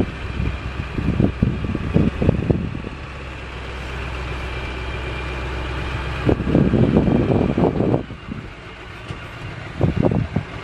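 Dump truck engine running steadily, with three stretches of rough low rumbling, near the start, a little past the middle and near the end.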